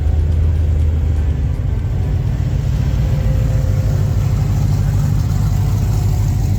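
Classic car and hot rod engines rumbling through their exhausts as the cars drive slowly past, with a brighter passing rush building in the middle.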